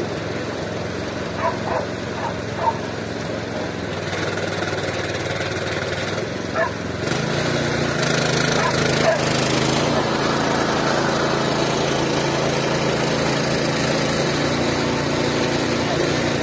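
Mobile band sawmill running steadily, its blade sawing through wood. It gets louder about seven seconds in, and a few short high-pitched sounds come in the first seconds.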